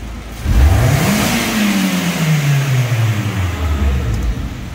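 A 2003 MG ZR's four-cylinder petrol engine given one snap of the throttle for a MAP sensor test: the revs climb sharply for under a second, then fall slowly back toward idle over about three seconds.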